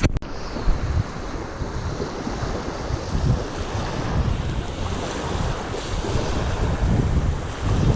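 Strong wind buffeting the microphone over choppy sea, with waves splashing; a couple of sharp clicks at the very start.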